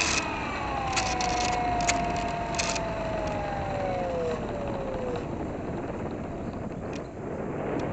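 The small electric RC plane's RCX NK1103 10000KV brushless motor and 3-inch propeller whining down as the throttle is pulled back, the pitch falling steadily for about five seconds before the whine fades out. After that only air rushing over the gliding airframe is left.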